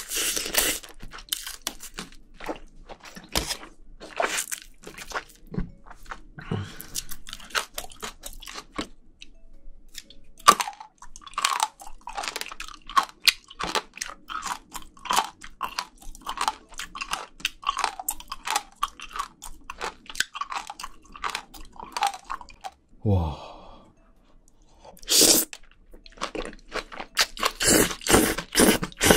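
Close-miked chewing and crunching of spicy braised seafood with bean sprouts, at about two chews a second. Wet slurping comes in near the end as food is sucked into the mouth.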